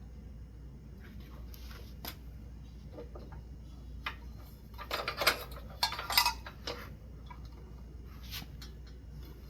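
Metal ceiling-fan hardware and tools clinking and rattling as they are handled, with scattered light clicks and a dense run of loud clinks about five to six and a half seconds in.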